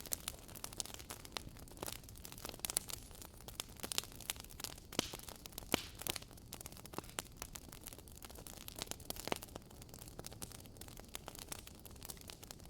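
Wood fire crackling: a steady hiss with many irregular sharp pops and snaps.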